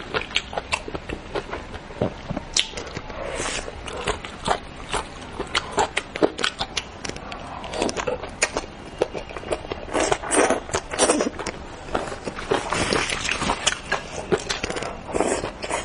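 Close-miked wet chewing and lip-smacking of soft braised fish, with many quick irregular clicks and smacks. They grow busier in the second half.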